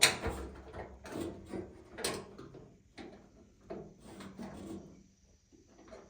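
Metal clicking and clattering from a latch rod and linkage being worked inside a pickup truck door: a sharp click at the start, then a run of shorter knocks and scrapes that die away near the end. The rod is binding, which the owner takes as a sign it may be the wrong rod.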